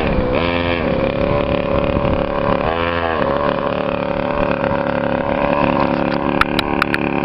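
Custom chopper motorcycle's engine running. Its pitch dips and comes back up twice in the first few seconds, then it settles into a steady idle. A few sharp clicks come near the end.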